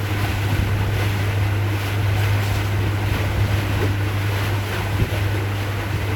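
Houseboat under way: its motor runs with a steady low hum, mixed with the rush of water and wind buffeting the microphone.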